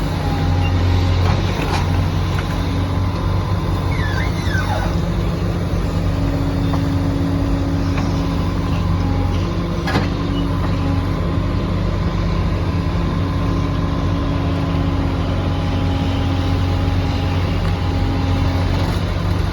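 Excavator's diesel engine running steadily under load, with a couple of sharp knocks and brief falling squeaks from the machine at work.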